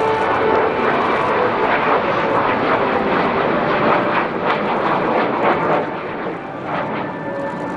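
Aircraft flying past, its engine noise loud and steady for about six seconds, then dropping off.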